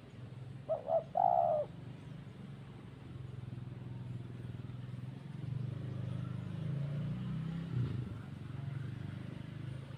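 A dove calls once about a second in: two short notes, then a longer one. A steady low hum runs underneath.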